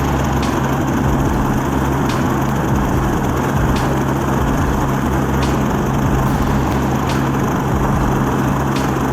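Engine running steadily at an even speed, a deep hum with a faint sharp tick repeating about every second and a half.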